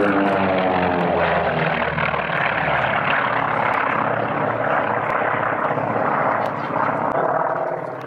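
Propeller-driven aerobatic airplane flying past, its engine note sliding down in pitch as it goes by, then a steady drone.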